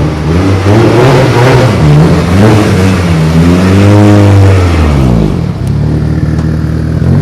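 Car engine revved hard several times in quick blips, then held in one longer rev that rises and falls back to a steady idle about five seconds in, before climbing again at the very end.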